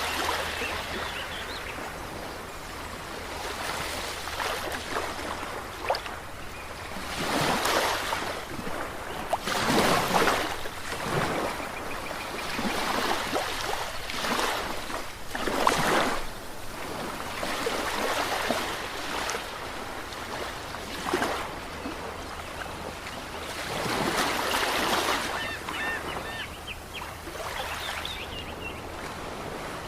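Ocean waves breaking and washing in, swelling in irregular surges every few seconds.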